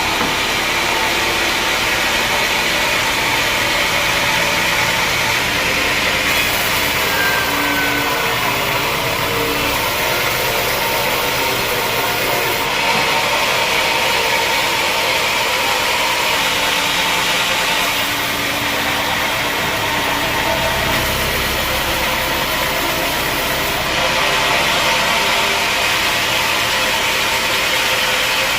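Sawmill machinery running with a steady engine drone and a dense mechanical noise, its character changing every few seconds.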